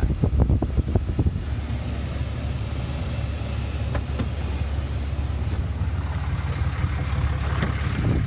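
2011 Ram 2500's Cummins 6.7-litre inline-six turbo diesel idling with a steady low rumble, through a custom exhaust with no catalytic converters.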